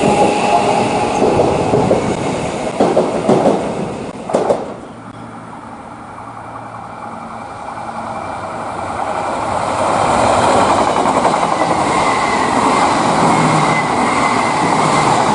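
Train running on rails, with wheels clacking over the rail joints. There are a few sharp knocks in the first five seconds; the sound then drops and builds up again.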